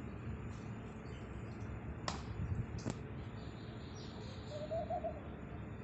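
A pigeon cooing briefly near the end, a short wavering call, with two sharp clicks a little under a second apart in the middle over a low steady background.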